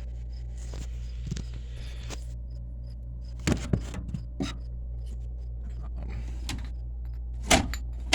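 Steady low hum, with a few short clicks and rattles midway and again near the end.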